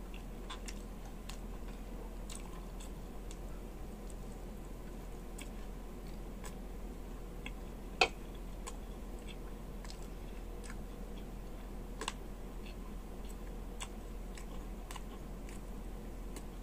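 Close-miked chewing of fried veal feet, with many small wet mouth clicks and smacks. One sharp click stands out about halfway through, and a smaller one a few seconds later.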